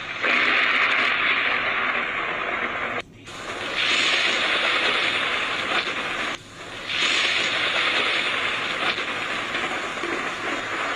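Heavy rain and wind of a violent thunderstorm, a loud steady hiss that cuts off abruptly twice, about three seconds in and about six seconds in, before resuming.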